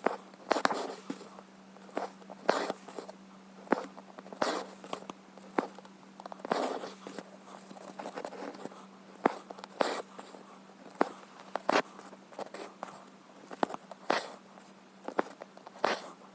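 Needle and thread being pulled through cross-stitch fabric: short scratchy pulls and clicks, irregular, about one every second.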